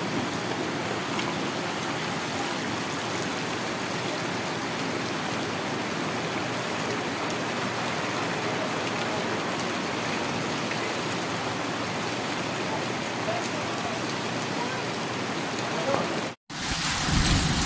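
Heavy monsoon downpour pouring onto a street and roofs, a steady even hiss. It cuts off abruptly near the end.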